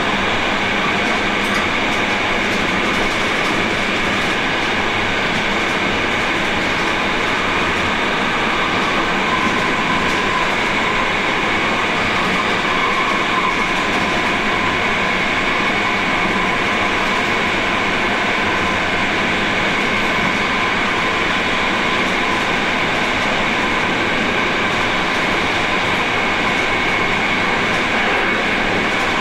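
Train running steadily along the track at speed, heard from inside the driver's cab: a continuous rumble and rush of wheels on rail, with a faint steady whine.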